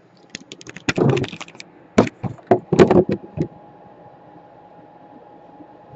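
Clicks, taps and a few heavier knocks as tools and laptop parts are handled on a workbench, then a faint steady hum.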